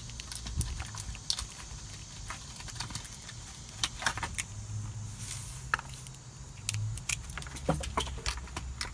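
Small plastic toy pieces and packaging being handled, with scattered light clicks and rattles.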